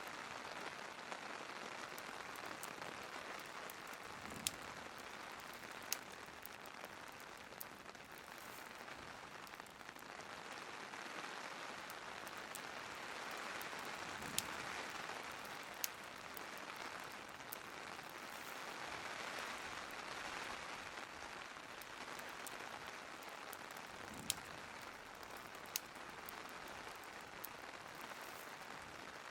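Steady rain ambience with a crackling fireplace. Sharp pops from the fire come in pairs about every ten seconds.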